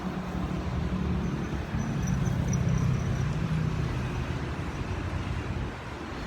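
Road traffic rumbling on the bridge overhead, one vehicle passing and swelling loudest a couple of seconds in before easing off.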